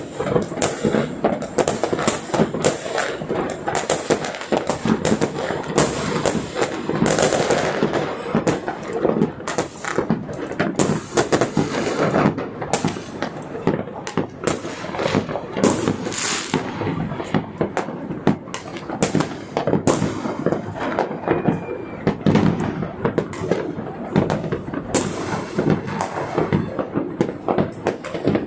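Fireworks and firecrackers going off continuously: dense, irregular bangs and crackling, many explosions overlapping without a break.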